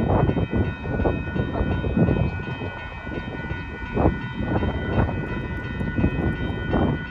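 Railroad grade-crossing warning bells ringing steadily over a low rumble of wind and traffic. The crossing stays activated with no train present, which the railfan takes for a possible malfunction.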